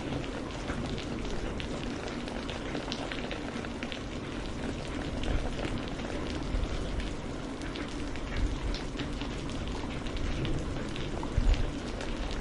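Steady rain falling on a surface, a constant hiss with many distinct drops ticking and pattering through it and a few heavier low thuds.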